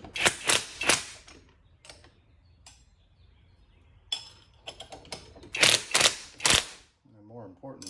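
3/8-inch impact wrench hammering in short bursts: a quick run of bursts about a second in, then three more about five and a half seconds in.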